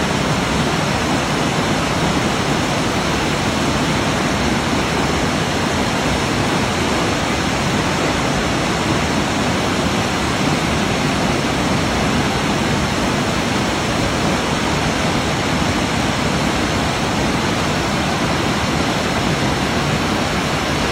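Waterfall: water cascading and falling in a steady, unbroken rush.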